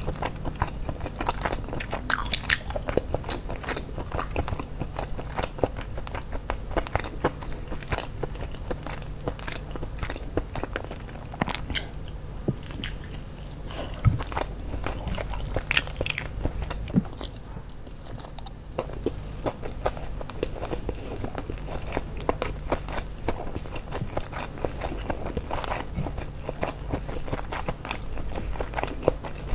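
Close-miked chewing and crunching of crispy fried chicken (ayam geprek) and rice, eaten by hand, with many small wet clicks and crackles and a few louder crunches.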